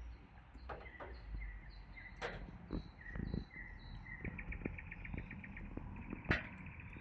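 A handful of irregular sharp knocks, the loudest about six seconds in, over a short chirping call repeated about twice a second and a brief rapid trill from a calling animal, with a low rumble underneath.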